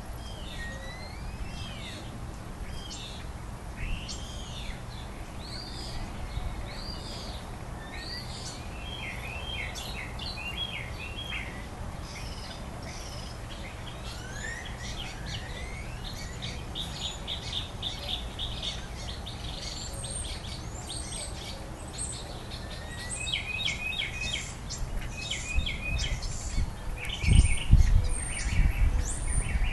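Outdoor songbirds chirping and calling, several short trills and whistled notes overlapping, with the calls growing busier in the second half. Under them runs a steady low rumble, with a few louder low surges near the end.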